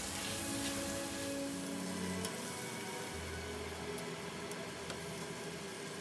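Pork ribs and bell peppers sizzling in a hot frying pan as they are stir-fried, with a steady hiss and a few light clicks of the spatula.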